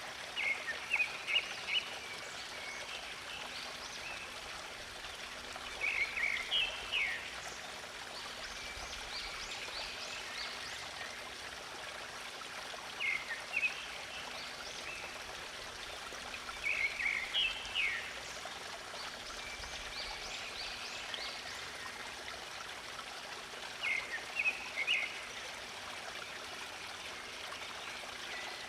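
Stream water running steadily, with a songbird singing a short, quick phrase five times, every five to seven seconds, and fainter bird calls in between.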